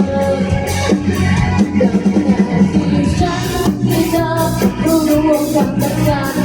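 A student band playing a pop song live, with a singer's melody over drums and bass.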